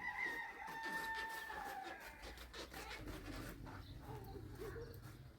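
Rooster crowing: one long drawn-out call over the first two seconds, followed by scattered light clicks and knocks.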